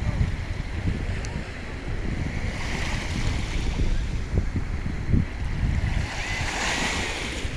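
Sea waves washing in, the hiss of surf swelling twice, about three seconds in and again near the end, over wind buffeting the microphone with a low rumble.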